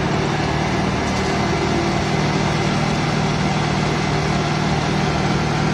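Concrete mixer truck's diesel engine running steadily as the truck discharges concrete down its chute.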